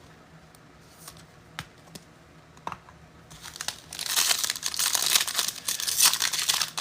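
A few light clicks, then from about three and a half seconds in, loud crinkling and tearing as a trading-card pack's wrapper is torn open.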